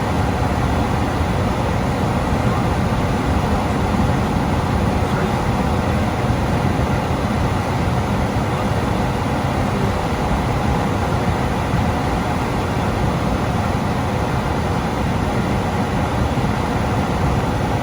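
Gas furnace fan running steadily: a loud, even rush of air and motor hum with no change throughout.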